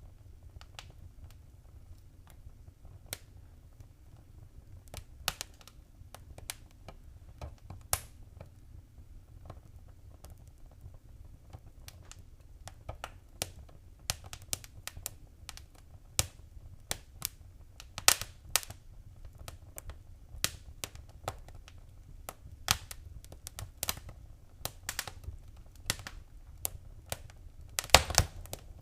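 Wood fire crackling: scattered sharp pops and snaps over a low rumble of the flames, sparse at first and growing busier halfway through, with a cluster of louder pops near the end.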